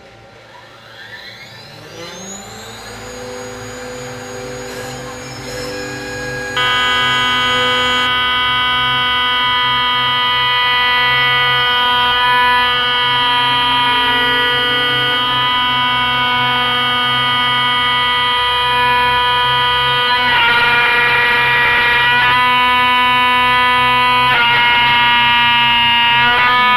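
CNC router spindle spinning up with a rising whine, then running at speed as a steady high whine. It steps louder about six seconds in and roughens twice near the end as the cutter faces off the rough top of an old wooden beam.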